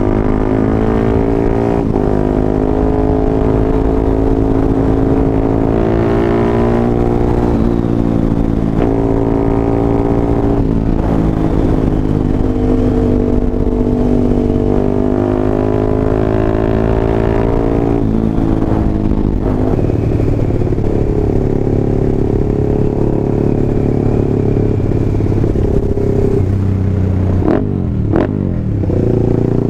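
Single-cylinder engine of a Honda CBR150R bored up to 180cc, run through a 3Tech EvoX X1GPR one-tone racing exhaust. It revs with the pitch climbing, breaking off and dropping again several times, and a couple of quick falling sweeps come near the end.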